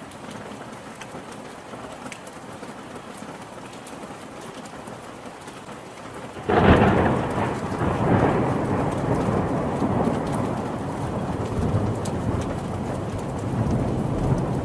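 Steady rain falling, then about halfway through a sudden loud clap of thunder that rolls on as a long, slowly fading rumble under the rain.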